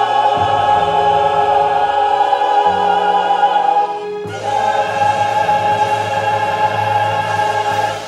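Choir singing two long held chords over a low keyboard bass line, the second chord cutting off just before the end: the closing chords of the song.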